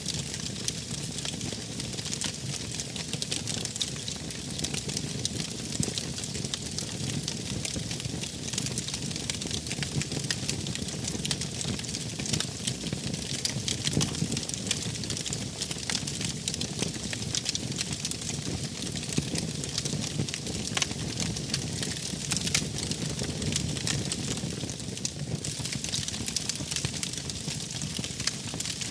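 Wood fire crackling steadily, with a dense run of small pops and snaps over a soft low rumble of the flames.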